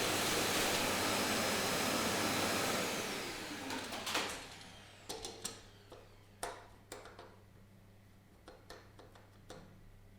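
An electric machine running with a loud, even rushing noise, switched off about three seconds in and spinning down with a falling pitch, followed by a series of light knocks and clicks.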